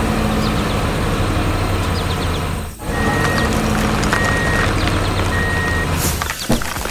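Heavy truck engine running steadily; about three seconds in, its reversing alarm starts beeping at a steady, even pace.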